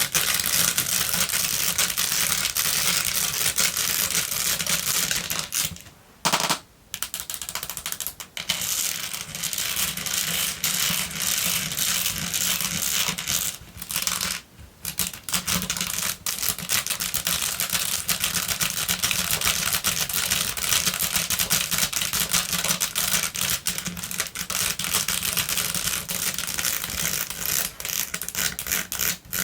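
Long fingernails tapping and scratching fast on a basket: a dense run of rapid clicks, with short pauses about six and fourteen seconds in.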